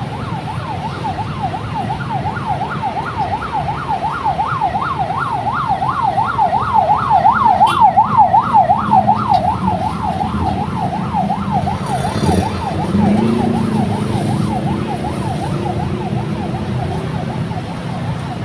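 Emergency vehicle siren in a fast yelp, rising and falling a few times a second. It grows louder to a peak about eight seconds in, then fades as it passes, over a steady rumble of road traffic.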